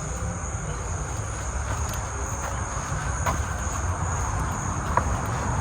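Crickets or other insects making a steady high-pitched drone, over a steady low rumble, with a couple of faint clicks.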